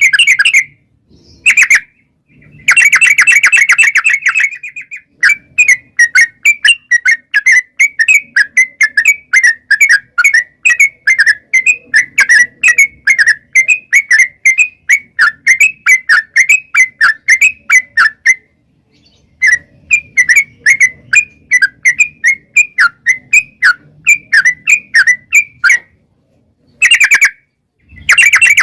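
Yellow-vented bulbul (trucukan) singing loudly. Rapid chattering trills open and close the song, and between them run long series of quick bubbly notes, about three or four a second, with brief breaks.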